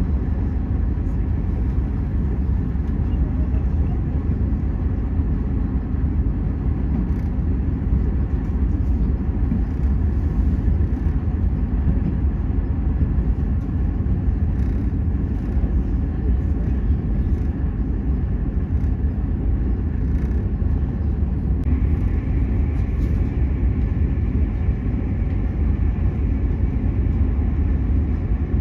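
Steady low rumble of the Enterprise passenger train running at speed, heard from inside a carriage. About three quarters of the way through, a higher hiss joins the rolling noise.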